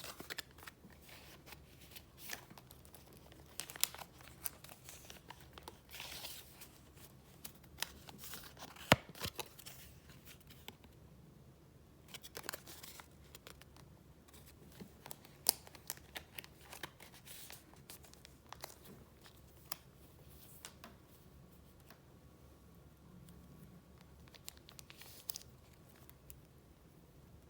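Paper goods in a file folder being handled and flipped through: intermittent rustling and crinkling with sharp clicks and taps, the loudest click about nine seconds in.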